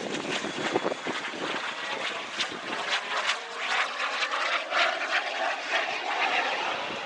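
SubSonex JSX-2 microjet's small turbojet engine in flight: a steady rushing jet noise, with a whine that slowly rises in pitch through the second half.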